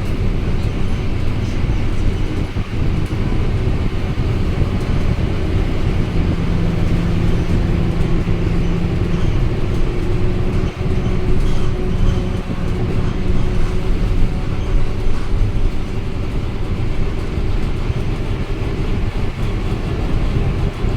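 Scania K230UB single-deck bus running, its diesel engine giving a steady low rumble with a held engine note, mixed with road and body noise.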